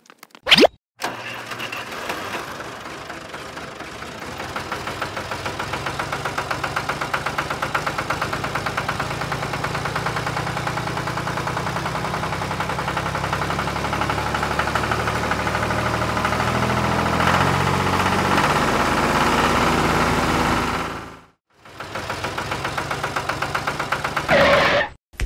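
Small diesel tractor engine chugging in an even rhythm. It starts about a second in, runs steadily, cuts off suddenly near the end, then briefly runs again.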